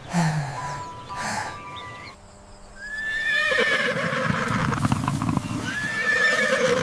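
Horse neighing twice, the first whinny about three seconds in and the second near the end, with clatter between the calls that fits hooves clopping.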